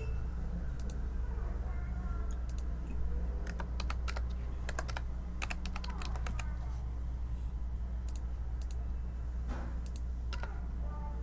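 Computer keyboard typing in short runs of keystrokes, busiest in the middle and again near the end, over a steady low hum.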